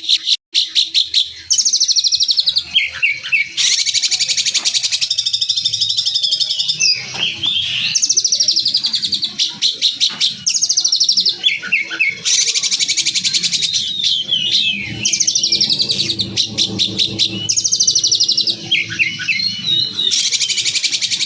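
Songbird song made of loud, rapid-fire harsh trills, the 'tembakan kasar' style, alternating with quick chirps and short sweeping notes, in phrases that repeat every few seconds.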